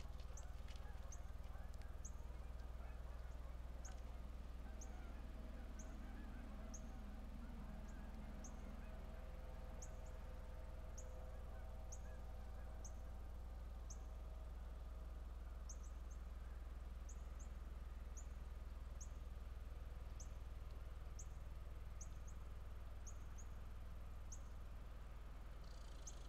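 A small bird giving short, high chip calls, repeated about once a second, over a steady low hum.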